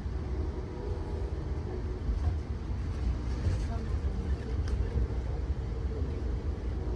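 Steady low rumble of a train in motion heard from inside a passenger car, with faint voices in the background.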